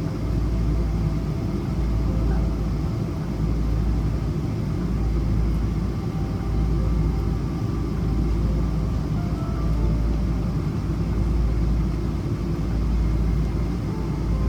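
Cabin noise inside a Boeing 777-200ER taxiing after landing: a steady low rumble from the idling engines and the rolling undercarriage, with faint whining tones above it.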